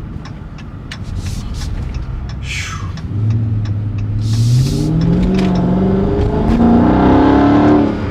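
2023 Chrysler 300C's 6.4-litre HEMI V8 with the mufflers removed, accelerating, heard from inside the car. About three seconds in the exhaust note starts climbing in pitch and getting louder, dips briefly at a gear change, then climbs again.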